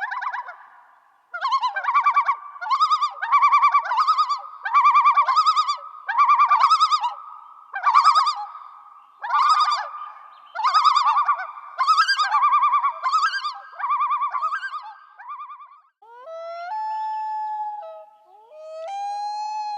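An animal calling: a run of short buzzy calls, about one a second, followed near the end by two longer smooth calls that rise in pitch and then hold.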